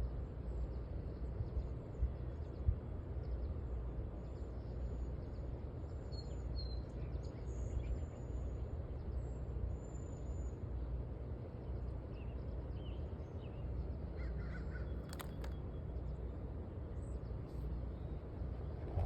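Steady low rushing outdoor background, with faint high bird chirps around the middle and a single sharp click about fifteen seconds in.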